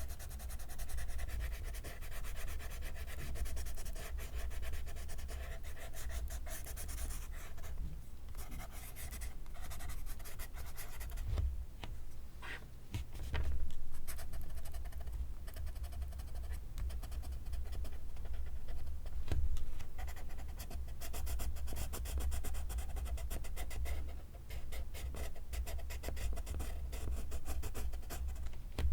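Pencil scratching across paper in continuous quick strokes of writing or drawing, easing off briefly a couple of times.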